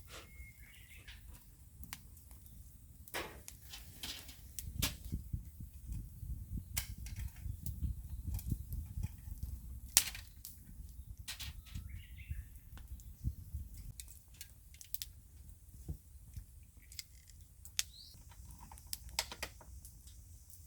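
Wood fire crackling, with sharp irregular pops, the loudest about ten seconds in. A bird chirps faintly a few times.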